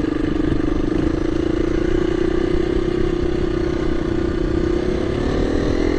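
KTM 350 EXC-F dirt bike's single-cylinder four-stroke engine running steadily under load, its pitch rising near the end as the revs pick up.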